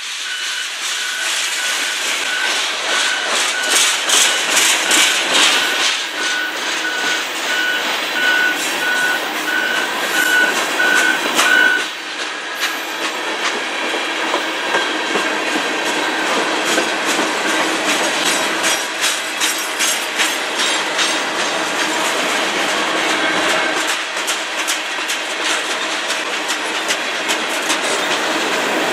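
CN manifest freight train's tank cars and covered hoppers rolling past close by: steel wheels clicking over rail joints under a steady rolling rattle. A repeated high beep sounds for about the first twelve seconds, then stops.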